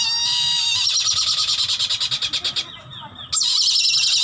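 Captive bird of prey calling loudly: a high-pitched, rapid chattering call in two long runs, with a short break about two and a half seconds in.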